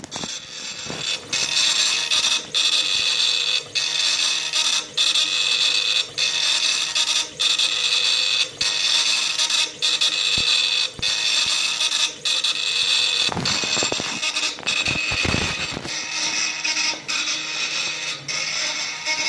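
Mirtels 60×120 engraving machine running a job: a steady high-pitched mechanical whine from the moving head and its drive, dropping out briefly about every 1.2 seconds as the head reverses at the end of each pass.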